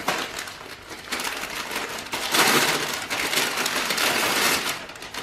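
Gift wrapping crinkling and tearing as a small wrapped present is opened, in irregular crackling rustles that are loudest near the middle.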